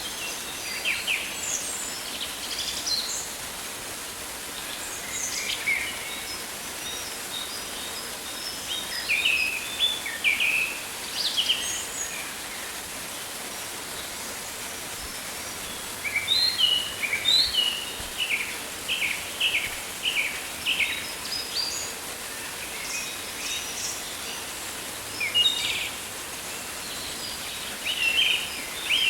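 Rainforest ambience: a steady hiss of rain with birds calling over it in short chirps and whistles, including a run of quick repeated calls, about two a second, a little past the middle.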